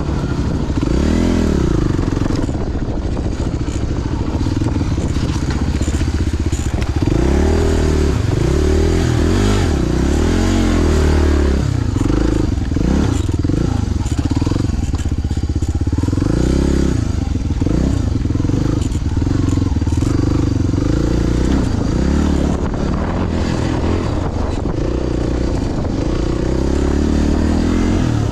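Motorcycle engine running loud and continuous as it is ridden, its pitch rising and falling again and again with the throttle.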